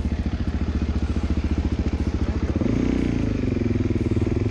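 Motorcycle engine running with an even, fast pulsing beat, then revving up about two and a half seconds in, its pitch rising and wavering.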